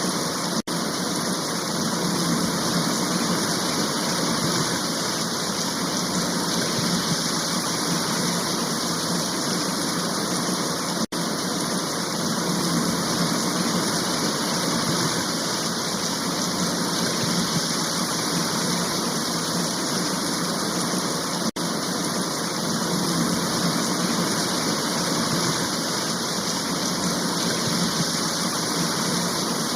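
Steady heavy rain shower, a dense even hiss of falling rain, broken three times by a momentary dropout about ten seconds apart.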